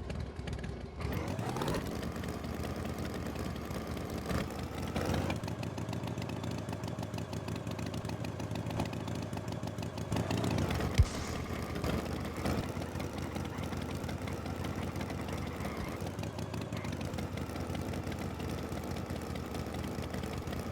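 Tractor engine idling steadily, rising in pitch briefly about a second in and again near the middle. There is one sharp click about eleven seconds in.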